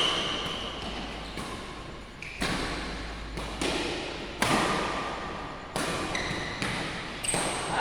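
Badminton rackets smacking a shuttlecock in a rally: about eight sharp hits, roughly one a second, each with a long echo trailing off in a large hall. A few short high squeaks come between the hits.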